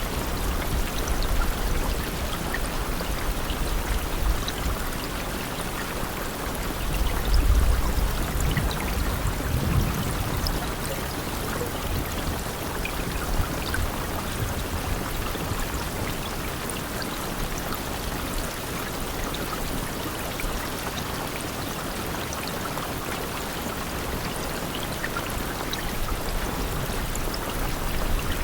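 Steady rainfall, a continuous hiss with scattered drop ticks, and a low rumble swelling briefly around the first third.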